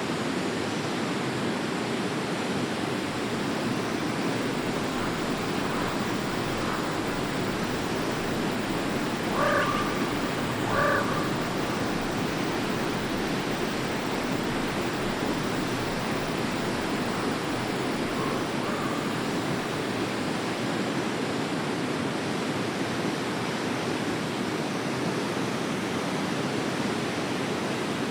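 Forest stream flowing steadily. Two short animal calls stand out about a third of the way in, with a few fainter calls before and after.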